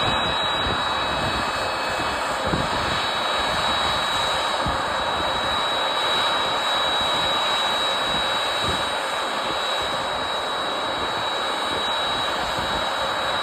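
Boeing 767-300ER airliner's jet engines running at low thrust as it taxis into its parking stand: a steady rush with a thin, steady high whine.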